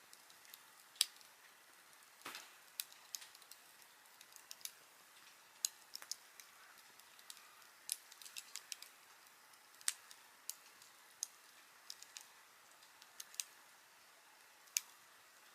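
Wood campfire crackling: sharp, irregular pops and snaps over a faint steady hiss, the loudest pop about a second in.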